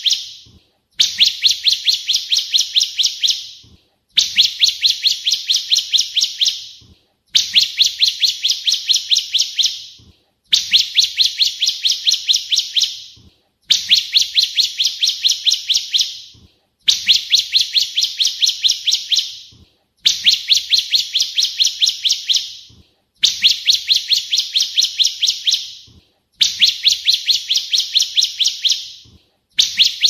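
Ciblek kristal, a prinia, singing a loud, clear song: rapid strings of high, evenly spaced notes, about five a second, in phrases of two to three seconds, repeated over and over with short pauses between them.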